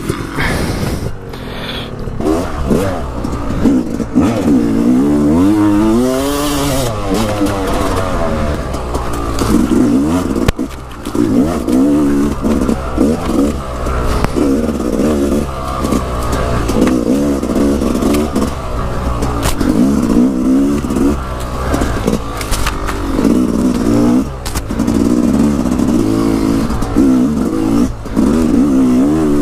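Dirt bike engine revving up and down over and over while being ridden, the pitch rising and falling every few seconds.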